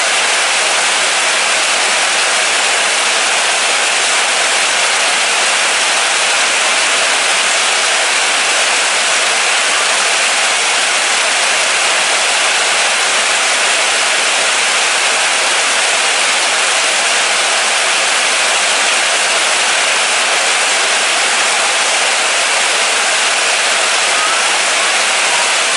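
Steady, moderate rain falling, a constant even hiss without separate drops or changes.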